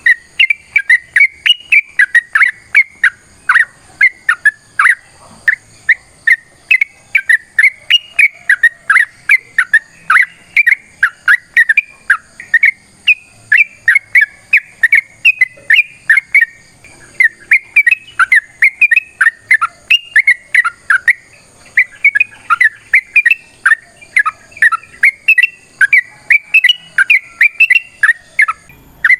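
Yellow-vented bulbul (trucukan) singing a long, rapid chattering song: quick sharp notes several a second, with a short break about halfway through.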